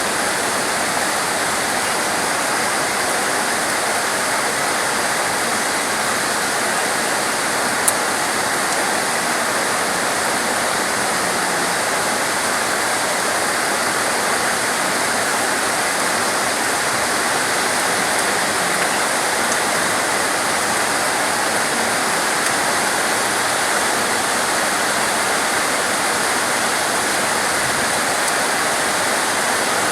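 Steady, dense rain falling, an even hiss with no pauses, with a single small click about eight seconds in.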